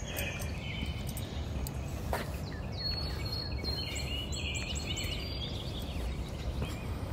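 Outdoor ambience: small birds chirping and singing in short high phrases, busiest in the middle, over a steady low rumble.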